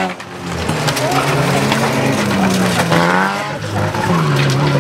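Car engines racing around a track, their pitch rising and falling as the drivers accelerate and lift off, with a few sharp knocks and clatters.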